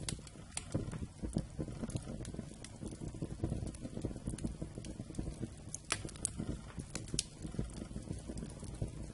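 Wood fire burning: a dense, steady low crackle with several sharp pops of the wood, a few of them together about six to seven seconds in.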